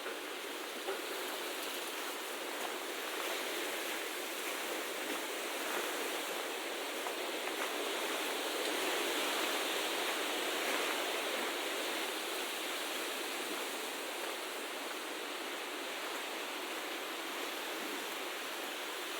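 Steady rushing of flowing water, swelling a little midway, with a few faint clicks in the first few seconds.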